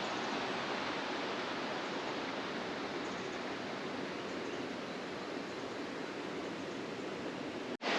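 Steady rushing of flowing water, like a stream or small waterfall, that cuts off suddenly near the end.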